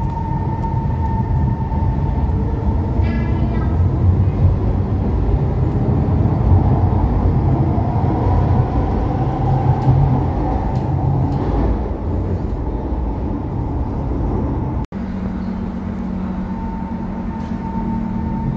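SMRT MRT train departing an underground station: a heavy wheel rumble with a traction-motor whine rising in pitch as it pulls away and dies down. About 15 s in the sound cuts off briefly, and a steadier hum with a low, even tone follows.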